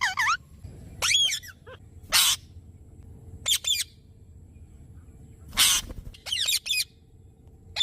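A parrot calling in short bursts: a few quick whistled chirps that bend in pitch, with two harsh, noisy screeches, one about two seconds in and one near six seconds.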